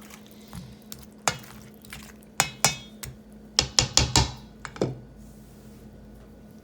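Serving utensil clinking and knocking against a pot and dish while rice is dished out: about ten sharp clinks in irregular clusters over the first five seconds.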